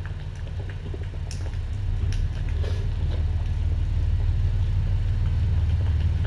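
A cat purring close to the microphone: a steady, deep, fast-pulsing rumble that grows a little louder a couple of seconds in, with a few faint small clicks over it.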